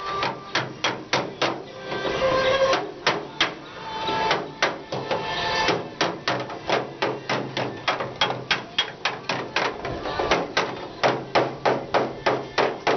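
Hammer blows on the sheet-metal rear body panel of a Mercedes-Benz W107 during bodywork repair. The strikes are sharp and even, about three a second, with a short break about two seconds in.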